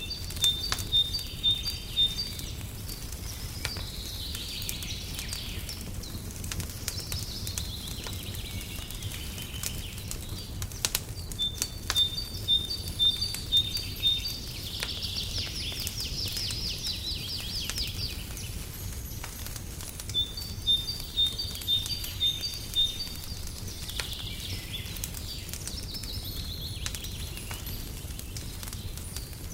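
Wood fire crackling with scattered sharp pops over a steady low rumble, while a songbird sings. Its song is a quick series of high, evenly spaced notes followed by warbling phrases, and it comes three times, about nine seconds apart.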